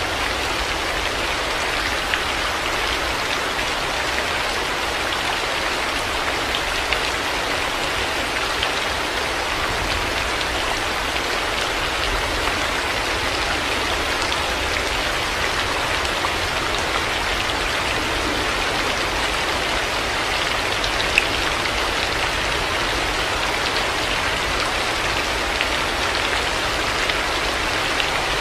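Heavy rain falling steadily, a dense even hiss of drops with an occasional single louder drop tick.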